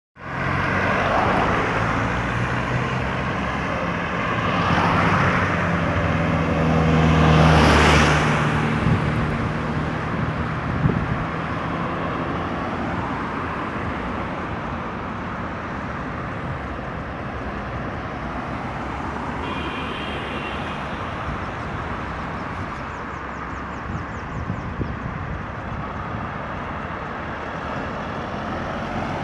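Road traffic passing on a busy highway. A heavy vehicle's engine goes by loudest about eight seconds in, followed by a steadier stream of passing cars.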